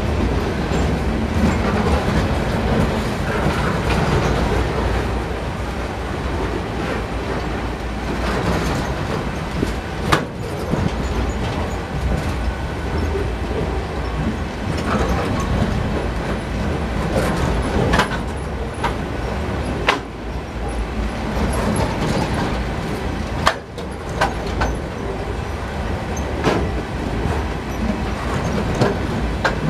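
Norfolk Southern freight train's loaded flatcars rolling past close by: a continuous rumble of steel wheels on the rails, with a sharp clack now and then, about six times.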